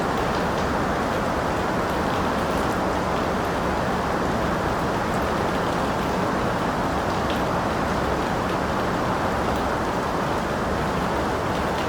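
Steady, even rain, with faint scattered drop ticks over it.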